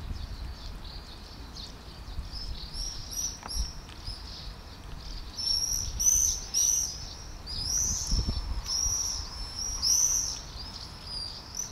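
A small bird chirping over and over, a series of short arched chirps that come thicker from about halfway through, over a low rumble.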